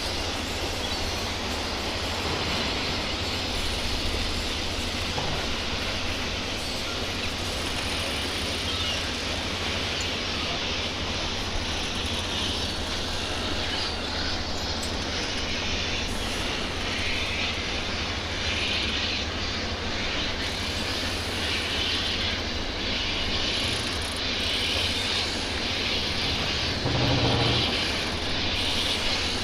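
Steady rumble of a train running, with a constant low hum beneath and a heavier thump near the end.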